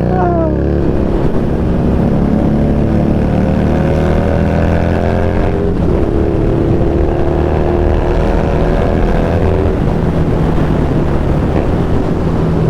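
Harley-Davidson Street Rod 750's V-twin engine running steadily under way, with a brief break in its note about six seconds in.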